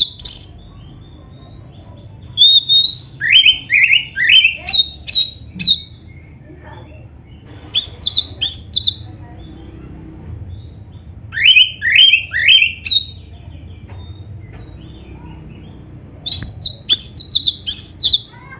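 Oriental magpie-robin (kacer) singing: bursts of quick, high whistled notes that slide down in pitch, repeated in several phrases with short pauses between them, over a faint low background hum.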